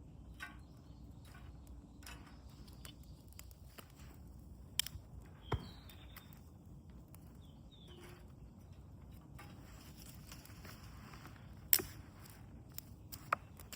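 Wood campfire crackling quietly, with a few sharp separate pops. Short high bird chirps come twice near the middle.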